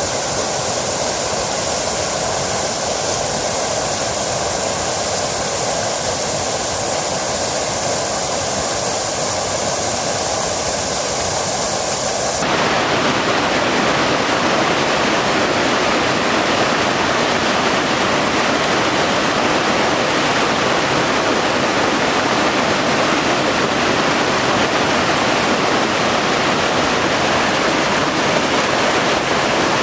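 Water of a small mountain-stream waterfall rushing steadily. About twelve seconds in, the sound changes abruptly to a louder, fuller rush.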